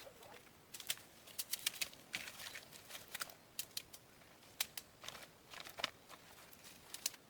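Irregular light clicks and short scraping sounds, a few a second, with several sharper ticks.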